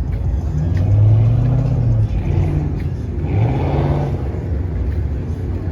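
Car engine with a loud exhaust being revved in a few short pulls, each held for about a second, the pitch climbing on one pull past the middle.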